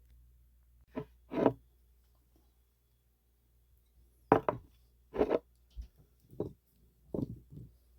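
Crisp crunches of a person biting into and chewing raw crab apples: about nine short, sharp crunches in small clusters, the loudest a little after four seconds in.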